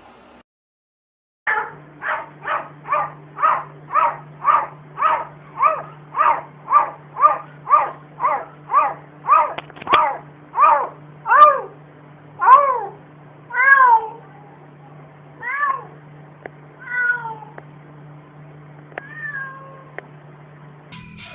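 A domestic cat meowing over and over in a rapid, insistent series of short meows, about two a second. Later the meows slow and become longer, drawn-out calls with a falling pitch, growing fainter toward the end.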